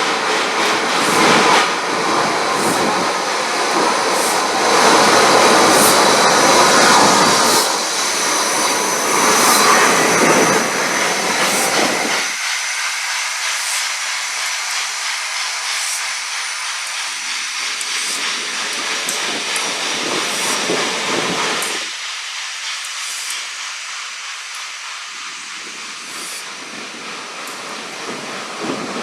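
Steam locomotive and its coaches running on the line, with hissing steam and a train rumble. About twelve seconds in the low rumble drops away, leaving a higher hiss and rattle that fades slowly.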